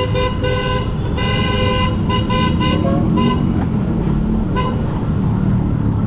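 Vehicle horn honking in traffic: a run of short and longer blasts over the first three seconds, then one more brief blast a little later, over a steady rumble of traffic and wind.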